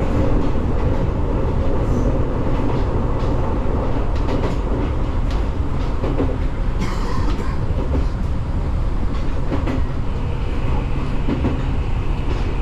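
Fujikyu 6000 series electric commuter train (a converted JR East 205 series) running along the line: a steady rumble with occasional clicks from the wheels on the track.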